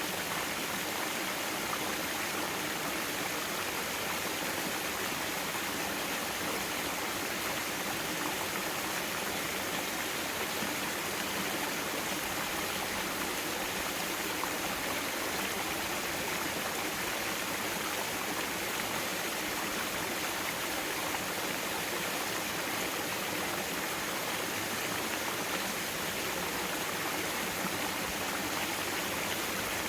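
Mountain stream water rushing and splashing over rocks in a valley, a steady even flow with no changes.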